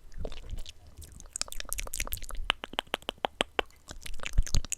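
Light tapping: a quick, even run of sharp clicks, about five a second, through the middle, then two louder, duller knocks near the end.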